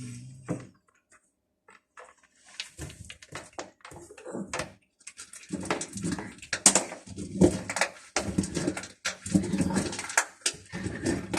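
Hungry stray cats eating: irregular clicking and crunching, sparse at first and growing dense and busy about five seconds in.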